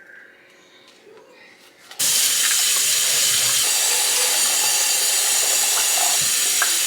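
Kitchen tap turned on about two seconds in, running steadily at full flow to fill something with water for soaking.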